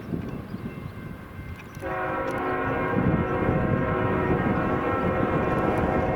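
Diesel freight locomotive's air horn sounding about two seconds in and held as one long chord over the low rumble of the approaching train.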